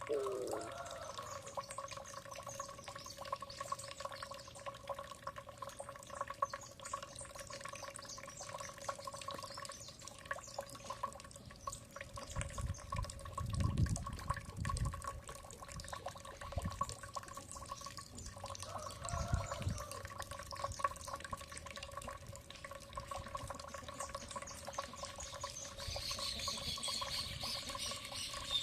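Birds calling over a steady trickle and drip of water, with a low rumble twice around the middle. Near the end one bird sings a quick run of chirps that falls in pitch.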